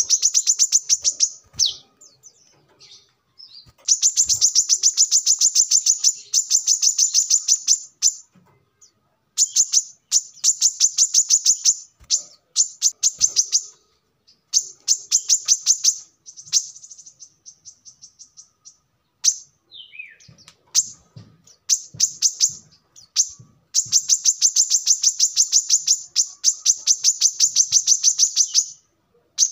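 Brown-throated sunbird (kolibri kelapa) singing: long runs of rapid, high, repeated chirps lasting several seconds each, broken by short pauses, with one downward-slurred note about two-thirds of the way through.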